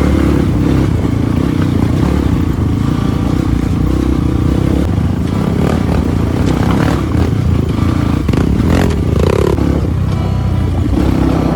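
Trail motorcycle engine running steadily under load on a rough off-road climb, with scraping and clattering from the bike over the track.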